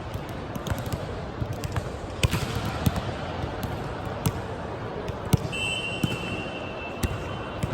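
Basketball game in a gym: the ball bouncing on the court in irregular thuds, with a sneaker squeak lasting about two seconds near the end, over a steady background of players and onlookers.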